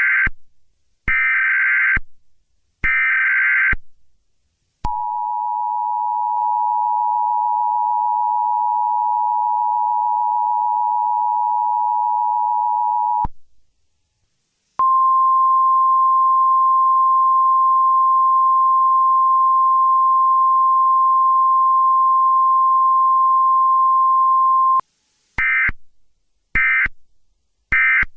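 Emergency Alert System tones. Three short, harsh bursts of digital header data come first, the first already under way. Then the two-tone attention signal holds for about eight and a half seconds and stops, a single steady tone holds for about ten seconds after a short gap, and three shorter data bursts end the message.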